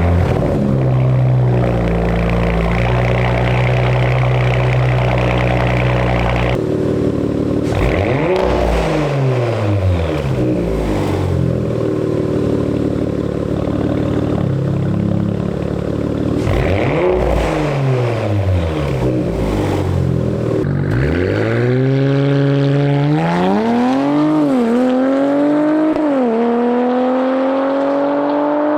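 Audi RS5's twin-turbo V6 through an AWE Track cat-back exhaust, running steadily at first, then rising and falling in pitch twice, then accelerating hard near the end with the pitch climbing through two quick gear-shift dips.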